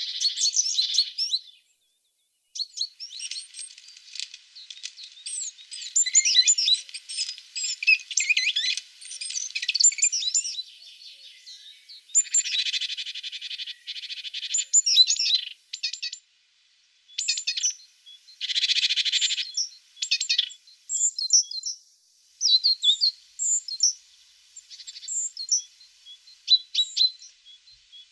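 Blue tits singing and calling: dense, rapid high chirps and trills, with a couple of short buzzy churring calls in the middle. The song drops out to silence twice, briefly.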